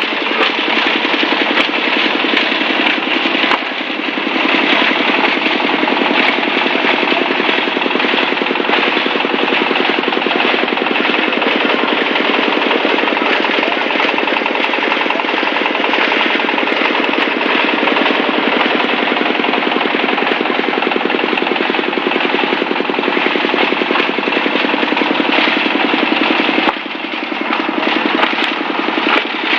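Diesel-driven plastic bottle crusher running under load, a dense rapid crackling and clattering as its steel blades chop plastic bottles over the engine's drone. The noise briefly eases about four seconds in and again near the end.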